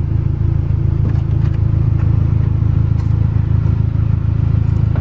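Acura Integra's engine running steadily, a constant low drone.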